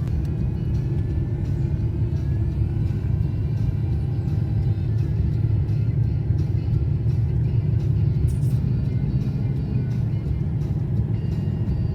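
Steady low road and engine rumble inside a moving car's cabin, with music playing faintly over it.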